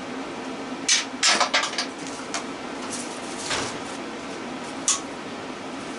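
Metal clinks and knocks from hand tools and parts of an electric motor being taken apart for scrap: a quick cluster of clinks about a second in, then single knocks, over the steady hum of a torpedo heater.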